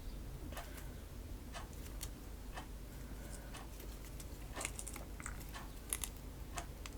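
Homemade white PVA-glue slime, stiff and rubbery, being kneaded and stretched by hand, giving faint, irregular sticky clicks about once a second.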